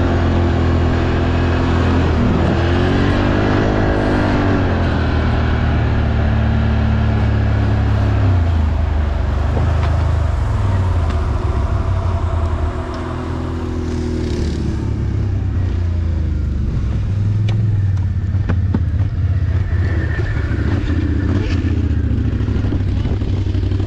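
ATV engine running under load in mud, revving up and down several times over a steady low drone, easing off briefly about halfway through.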